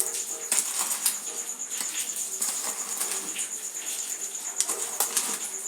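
Dry, brittle material being crumbled, a dense run of small crackles and crunches with a few sharper snaps.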